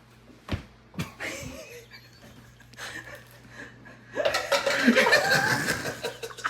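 People laughing loudly, breaking out about four seconds in, after two dull thumps near the start, over a steady low hum.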